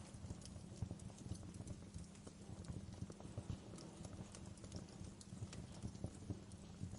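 Wood fire crackling in a fireplace: irregular snaps and pops over a low, steady rumble of burning.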